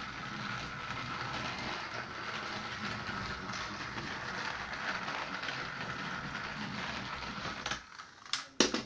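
A battery-powered Trackmaster Streamlined Thomas toy engine running on its stock motor: a steady whir with gear rattle that stops after about eight seconds, followed by two sharp clicks.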